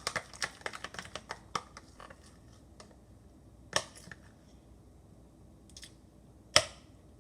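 A quick run of small clicks and taps for about two and a half seconds, then two single sharper clicks, the second the loudest, near the end.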